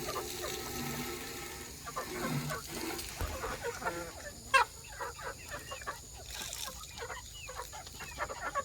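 A flock of chickens clucking and calling in many short, overlapping calls, with one louder, falling call about four and a half seconds in.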